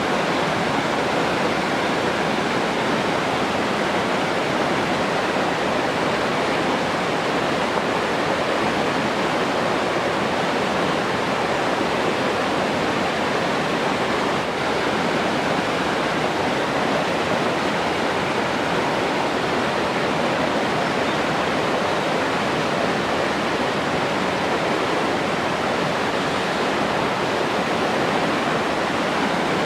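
Steady rushing water, an even, unbroken rush that holds the same level throughout.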